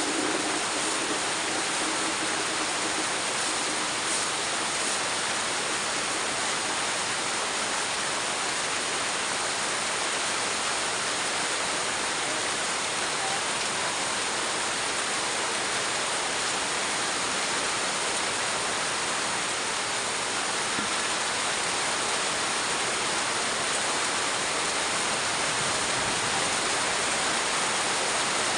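Heavy rain pouring down, a dense, steady rush of water that neither rises nor falls.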